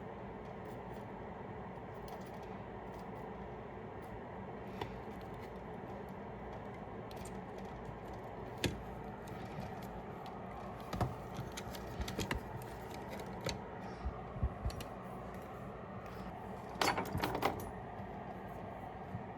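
Small metal hand tools clicking and tapping at the bench while headphone components are desoldered: scattered light ticks, with a short rattle of several quick clicks near the end, over a steady hum.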